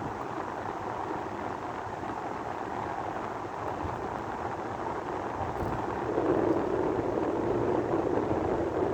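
Sandstorm wind blowing with a steady rushing noise, growing louder about six seconds in.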